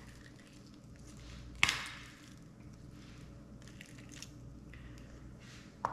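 Knife work on a fish carcass on a cutting board: faint cutting sounds with one sharp knock about one and a half seconds in.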